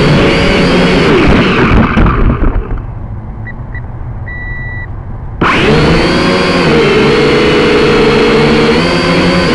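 Quadcopter drone motors and propellers whining, the pitch wavering as they work against gusty wind. About two seconds in the motors wind down and stop, leaving wind rumble with two short electronic beeps and a longer one, then the motors spin back up abruptly a little after halfway.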